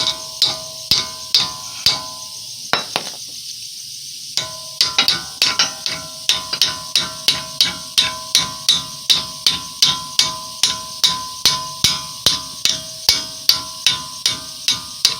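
Hammer tapping steadily on a steel brake retaining clip to drive it into place, about two strikes a second, each with a short metallic ring. The tapping pauses briefly about three seconds in.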